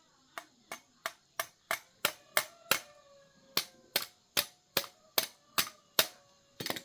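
Repeated hammer blows on metal, about three a second, each strike leaving a short metallic ring; the blows pause briefly partway through and end in a quick flurry of light taps.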